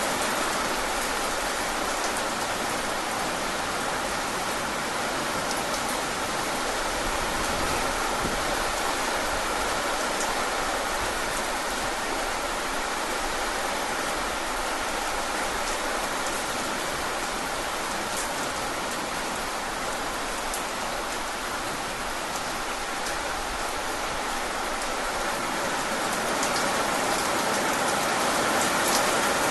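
Steady rain falling on a surface, a dense even hiss with fine patter of individual drops, growing slightly louder near the end.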